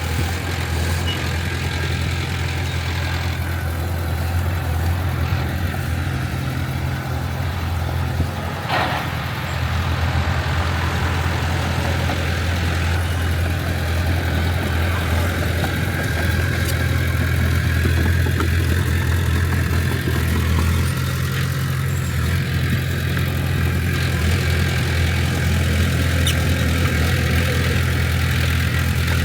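Small crawler bulldozer's diesel engine running steadily, with a single brief knock a little under nine seconds in.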